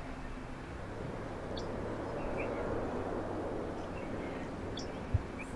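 A vehicle passing on a nearby road, a steady rushing noise that swells to a peak about halfway through and then fades, with a few faint bird chirps over it and a soft thump near the end.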